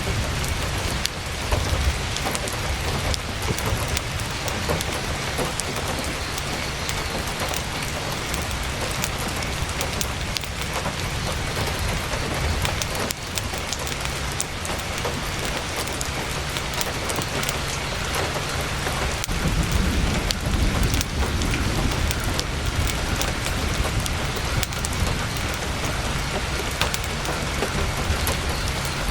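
Heavy rain drumming steadily on a tent's fabric, a dense patter of fine drop ticks, over a low rumble that swells for a few seconds about two-thirds of the way through.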